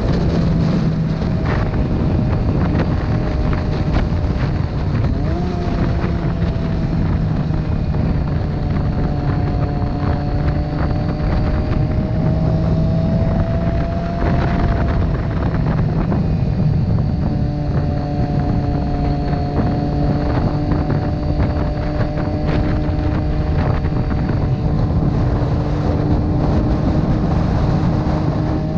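Motorcycle engine running at a steady cruise, its note drifting slightly up and down, with wind rushing over the microphone.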